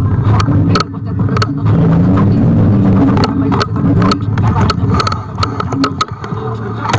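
Riding noise from a Kugoo G1 electric scooter: a steady low hum that wavers in pitch, broken by many sharp clicks and knocks, as of the scooter rattling over bumps in the surface.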